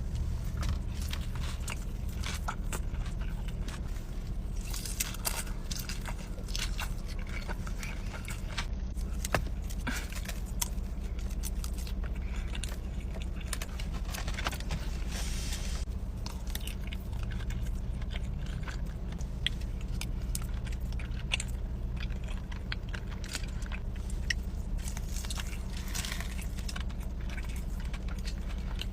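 Close-miked eating: repeated bites and crunchy chewing with crackly, crisp clicks, over a steady low hum.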